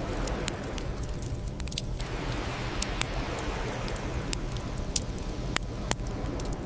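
Bonfire crackling: a steady low rumble and hiss of burning wood with scattered sharp pops, several louder ones in the second half.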